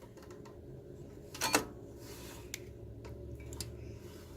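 A few light clicks, one sharper about a second and a half in, over a low steady hum.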